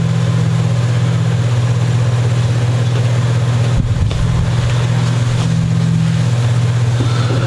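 A steady low hum runs throughout, with a brief low bump about four seconds in.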